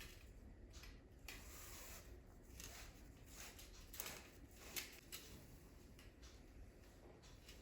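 Near silence in a quiet room, with a few faint light taps and clicks, the clearest about four seconds in and just before five seconds.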